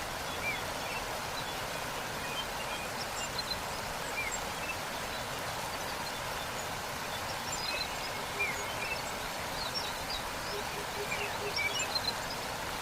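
Steady rush of a waterfall, with small birds chirping high and scattered over it, and a short run of low, evenly spaced notes near the end.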